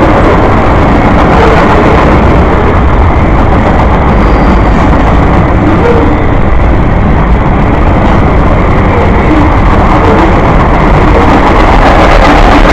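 Freight train rolling past: a loud, steady rumble of wheels on the rails.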